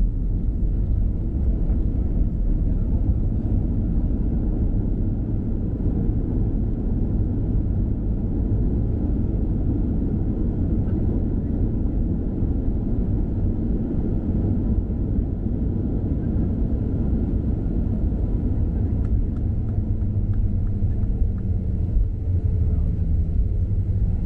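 Steady low rumble of airliner cabin noise, the engines and airframe heard from inside a Southwest Boeing 737. A low steady hum comes in near the end.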